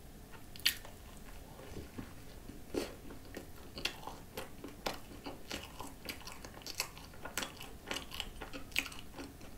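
A person biting into a whipped-cream-topped croissant about a second in, then chewing it, with scattered small crackles from the flaky pastry.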